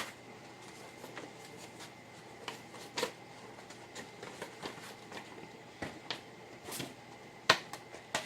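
Cardstock and paper crafting supplies being handled on a work table: soft paper rustling with scattered light clicks, and a few sharper taps as items are set down, the loudest about seven and a half seconds in.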